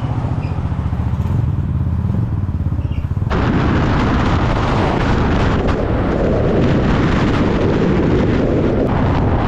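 A vehicle engine drones at a low pitch. About three seconds in, a louder, steady rushing noise of wind and road takes over.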